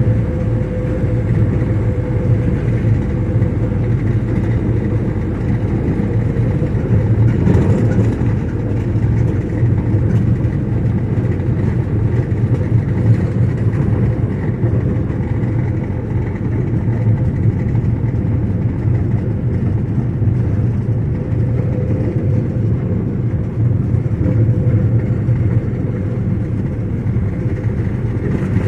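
Steady rumble of a moving vehicle, engine and road noise with a faint constant hum, unchanging throughout.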